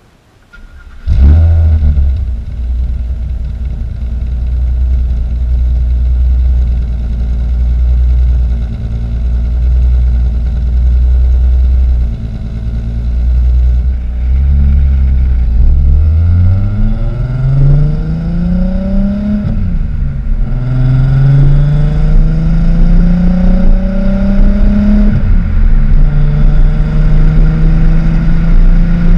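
Volkswagen GTI's 12-valve VR6 engine through a Techtonics cat-back exhaust with a Magnaflow muffler: it starts up about a second in and idles steadily. Over the second half the engine note climbs in pitch twice, with a drop after each climb as if shifting up a gear, then holds a steady higher drone.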